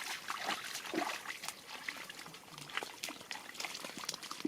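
Water splashing and dribbling in a run of small, irregular splashes and clicks.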